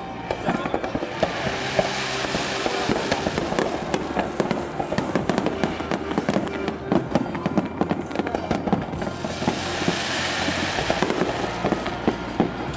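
Aerial fireworks display: a rapid, continuous run of shell bursts and crackling, growing into dense crackle twice, about one and a half seconds in and again near ten seconds.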